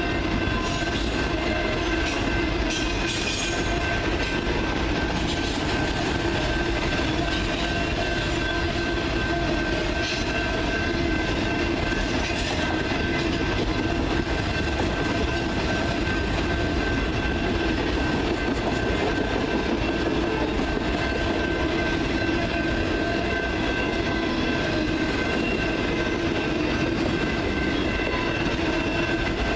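Freight train rolling past: a steady rumble of wheels on rail, with a few brief clacks in the first dozen seconds and a steady high whine underneath.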